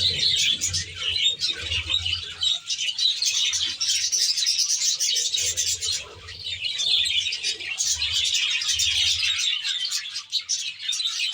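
A flock of budgerigars chattering and chirping continuously: many overlapping short, high warbling calls.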